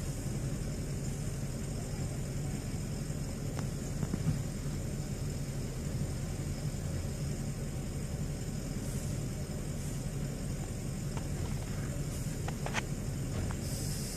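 Vehicle engine running steadily with a low rumble, with a few faint ticks in the last few seconds.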